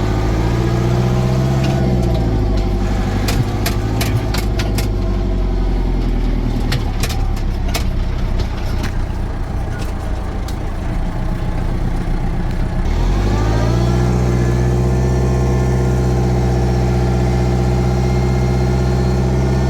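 Case 895XL tractor's four-cylinder diesel engine running under way: it revs up and eases back, runs lower with a string of sharp clicks and rattles through the middle, then revs up again about two-thirds through and holds steady before dropping off at the end.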